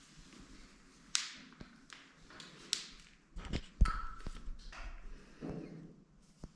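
Irregular sharp taps and thuds of footsteps on a rocky mountain trail, with a cluster of heavier knocks near the middle.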